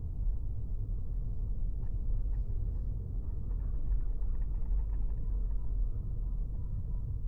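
Steady low road and engine rumble heard inside a moving car, with a few faint ticks in the middle.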